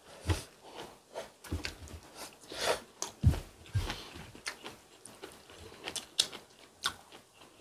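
Close-miked eating sounds from two people: chewing and biting, with scattered light clicks of metal chopsticks on the dishes.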